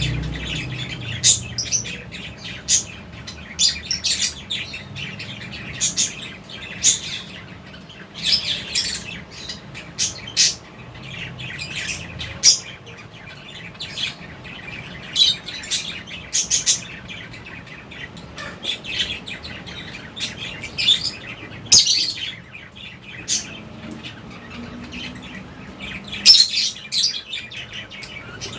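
Lovebirds in an aviary chirping: many short, sharp high-pitched calls scattered irregularly, several birds calling over one another.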